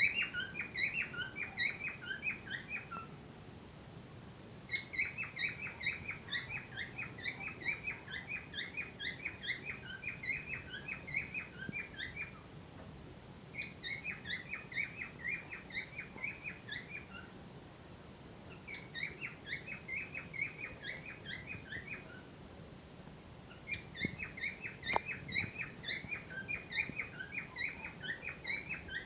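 Cockatiels chirping in repeated bouts of rapid short chirps, several a second, each bout lasting a few seconds with brief pauses between.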